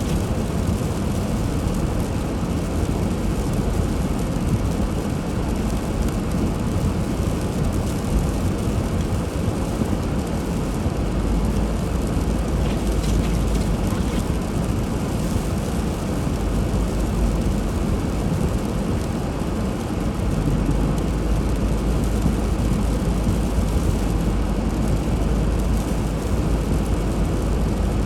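Steady low rumble of a car driving, engine and tyre noise without a break; the deepest rumble grows stronger about two-thirds of the way through.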